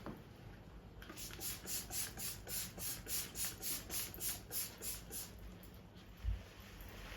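Rhythmic scrubbing, about three to four strokes a second, starting about a second in and stopping before six seconds, followed by a single low thump.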